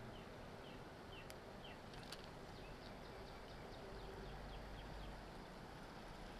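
Faint outdoor background with a bird calling in a quick series of short, falling high chirps, and two sharp clicks about one and two seconds in.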